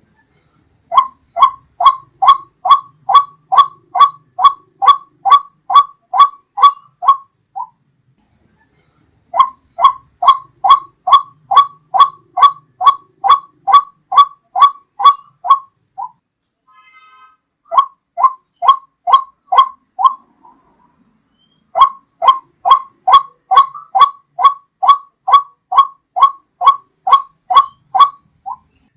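White-breasted waterhen (ruak-ruak) calls played as a hunting lure: a rapid, even series of short notes, about two to three a second, repeated in bouts of several seconds with short pauses between.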